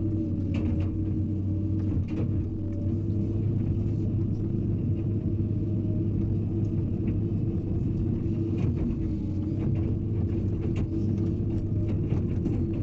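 Hydraulic excavator's diesel engine running steadily, a deep, even hum with a few short knocks and clicks scattered through it.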